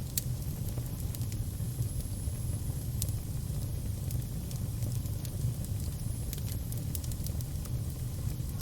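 Fire burning with a steady low roar, with sharp crackles and pops at irregular intervals.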